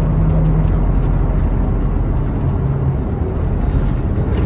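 MAZ-216 city bus driving, heard from inside the passenger cabin: a steady engine drone over road and body noise, its pitch dropping slightly about a second in and again near the middle.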